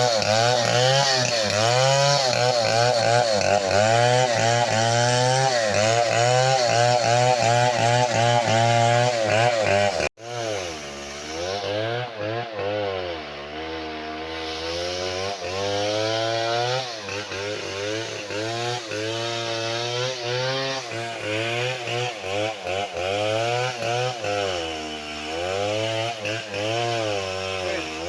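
Two-stroke chainsaw running and cutting wood, its engine pitch wavering as the chain bites. About ten seconds in the sound breaks off for an instant, then carries on quieter, the saw revving up and down.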